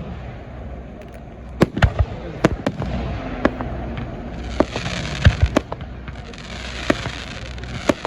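Fireworks display: a string of sharp bangs from aerial shells at uneven intervals, with a dense hiss joining in about halfway through.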